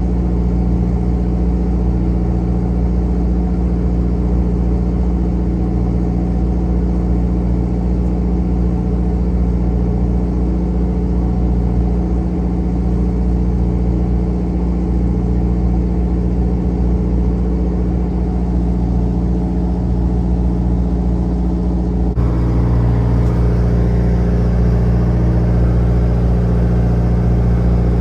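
Fishing boat's engine running steadily with a constant drone. About 22 seconds in, the sound changes abruptly and gets a little louder and hissier.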